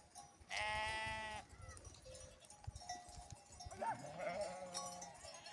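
Herd animals bleating: one long, high bleat about half a second in, then fainter, shorter bleats around three to four and a half seconds in.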